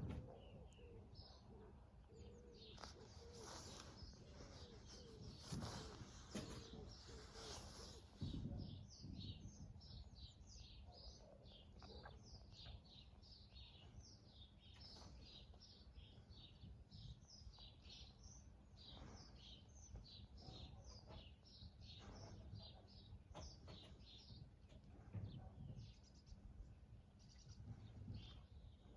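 Faint songbird song: a long, continuous run of quick high chirps, over a low background rumble.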